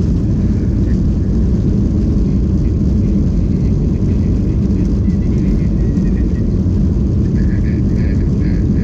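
Steady, loud rumble of an airliner's engines and rushing air heard inside the cabin during takeoff, with faint voices near the end.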